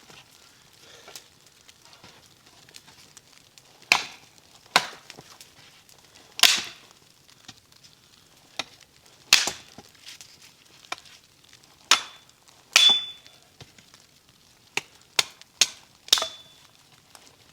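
Wood being chopped: about a dozen sharp blows at an uneven pace, a few of them with a brief metallic ring.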